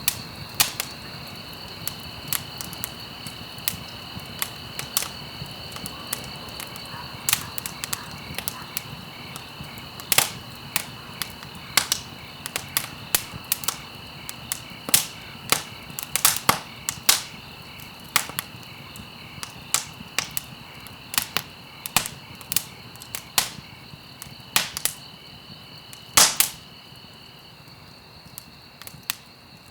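Campfire burning with irregular crackles and sharp pops over a low hiss. Crickets chirp steadily at a high pitch behind it, and one of them stops near the end.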